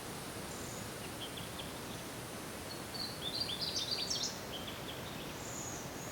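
Steady forest background hiss with a small bird's quick, high chirps: a few faint ones about a second in, then a busier run of chirps about halfway through.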